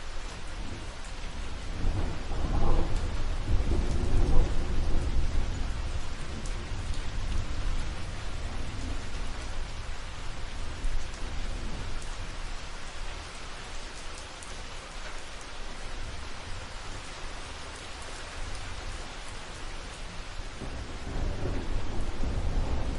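Steady rain falling, with low rolling thunder that swells about two to five seconds in and rumbles again near the end.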